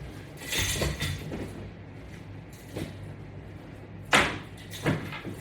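Handling noise: a rustle about half a second in, then two short, sharp knocks near the end, the first the louder.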